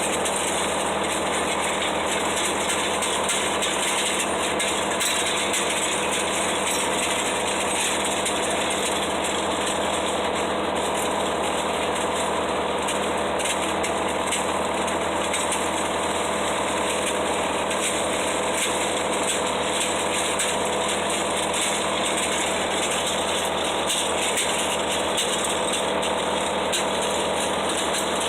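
Garden tractor (riding lawn mower) engine running steadily while it pulls a home-made box blade with ripper teeth through a gravel driveway.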